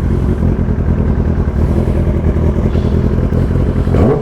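Kawasaki ZX-10R inline-four running through an aftermarket Austin Racing exhaust, ticking over steadily, with the revs rising sharply near the end.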